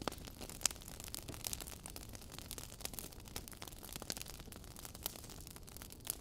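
Wood fire crackling in a fireplace: irregular sharp pops and snaps over a low, steady rumble of burning, with the loudest pop about two-thirds of a second in.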